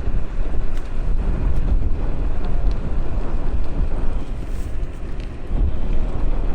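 Wind rushing over the microphone of an electric bike in motion: a steady low rumble with no engine note, easing off slightly about five seconds in.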